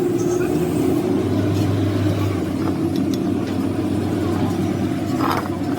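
Steady mechanical drone of a running motor or engine, with one short knock near the end.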